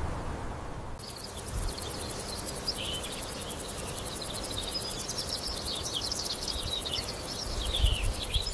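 Insects trilling in a fast, even pulse that starts about a second in, with small birds chirping over it.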